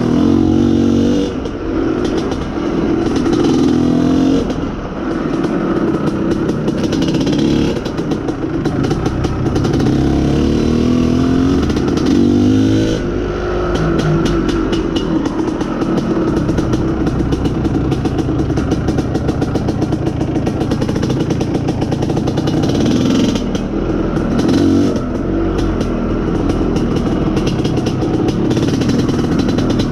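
IZh Planeta Sport motorcycle's single-cylinder two-stroke engine running under way. Its pitch rises and falls through the first half with throttle and gear changes, then holds steadier.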